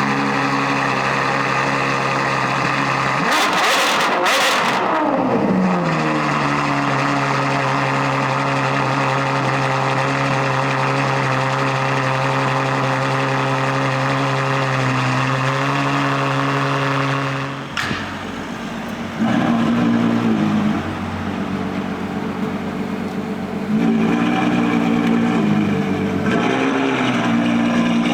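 Ferrari F12 Berlinetta's V12 with a Novitec N-LARGO exhaust, its idle dropping and settling into a steady fast idle, with one quick rev about four seconds in. The steady idle cuts off suddenly past the middle, followed by a series of throttle blips.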